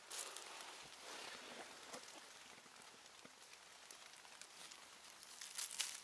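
Faint patter of light rain in a forest, with soft rustling and crackling of leaves and twigs underfoot that grows louder near the end.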